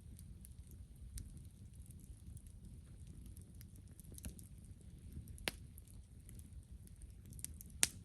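Campfire burning: wood crackling with scattered small snaps over a steady low rumble, and two sharper pops, one about five and a half seconds in and a louder one near the end.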